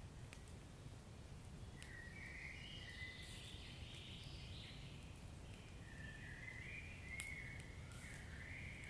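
Fireplace wood fire burning faintly: a few sharp crackles over a low steady rumble. A wavering high hiss comes in about two seconds in and again about six seconds in.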